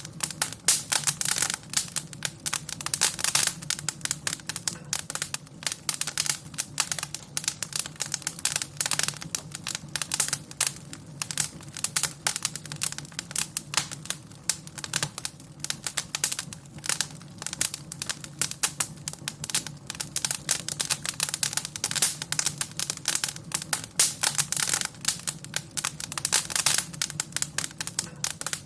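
Wood fire in a fireplace crackling and popping: a dense, irregular stream of sharp crackles over a low steady rumble.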